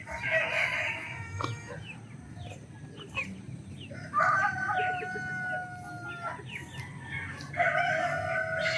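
Rooster crowing twice, a long held crow about four seconds in and another starting near the end, with chickens clucking and short chirping calls between.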